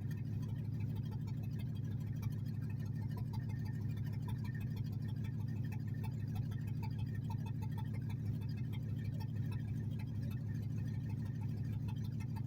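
Mercedes S55 AMG's supercharged M113K V8 idling steadily through open headers with no catalytic converters, a loud, rapid, even exhaust pulse with no revving.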